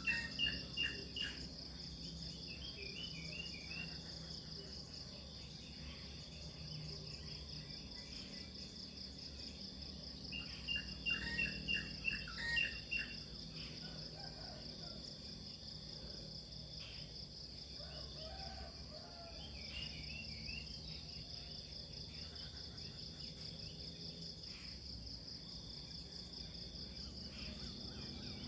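Nature ambience: a steady, high, finely pulsing insect chorus, with birds chirping in short bouts, loudest around a third of the way in.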